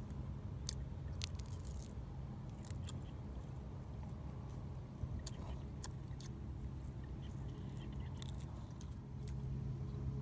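A person chewing and biting roast duck meat off the bone, close to the microphone, with scattered wet mouth clicks and smacks over a steady low hum.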